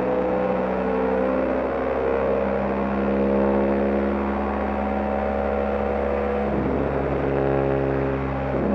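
BMW GS Adventure motorcycle engine running at road speed, its steady note drifting slowly in pitch. The note breaks up briefly about six and a half seconds in and again near the end, then comes back.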